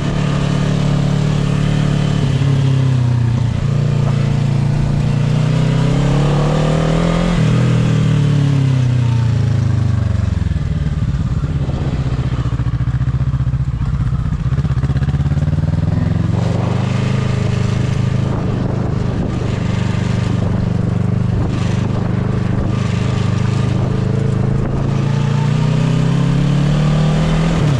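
Motorcycle engine heard from the bike while riding: it revs up, drops sharply about seven seconds in as it shifts gear, falls low as the bike slows, then climbs again through the second half, under a steady rush of wind noise.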